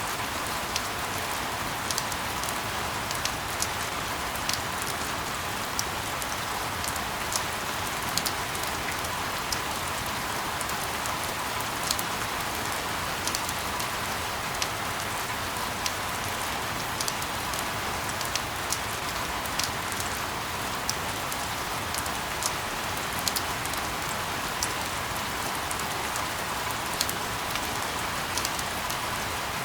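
Steady rain falling, an even hiss with sharp individual drop ticks scattered irregularly, several a second.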